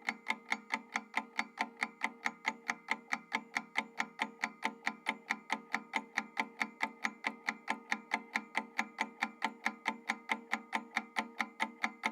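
Ticking-clock timer sound effect: quick, even ticks, about four to five a second, over a steady held tone underneath.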